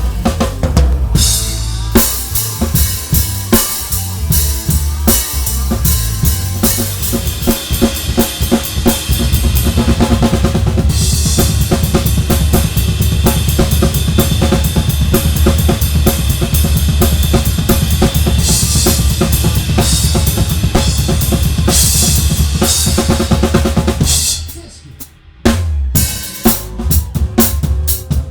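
A live band playing, heard from the drum kit: kick drum, snare with rimshots and cymbals in front, over bass and guitars. About 24 seconds in the band stops for about a second, then comes back in.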